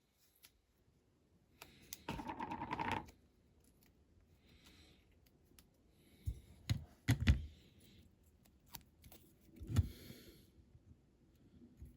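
Small handling noises at a modelling workbench while a diecast van body is masked for painting: a crackling rasp lasting about a second, then a few light knocks and clicks.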